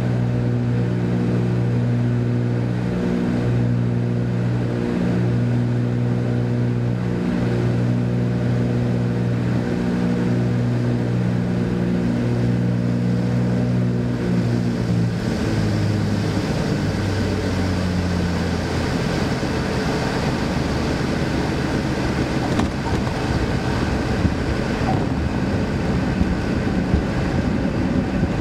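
The Cessna 310's twin piston engines drone steadily on final approach. About halfway through their pitch drops as the power comes back for landing. A rougher rushing noise follows, with a few knocks near the end.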